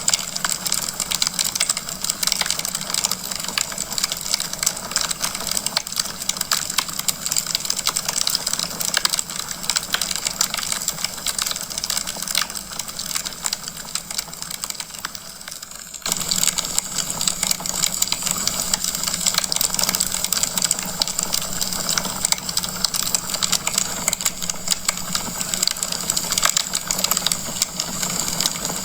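Wood fire crackling in a fireplace: a dense run of small snaps and pops over a steady hiss. About sixteen seconds in, the sound dips slightly and then cuts back in abruptly at full strength.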